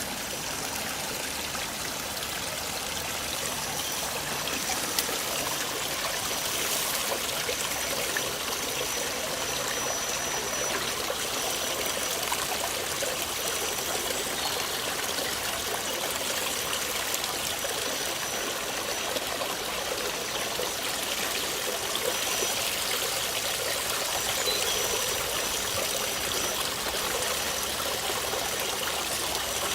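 Steady rushing and trickling of running water, an even hiss without breaks, with a faint high whine coming and going over it.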